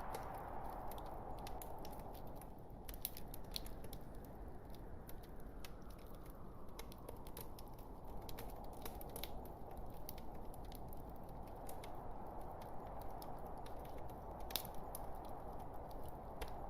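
Wood logs burning in a fireplace: a steady low rush of flame with frequent, irregular sharp crackles and pops.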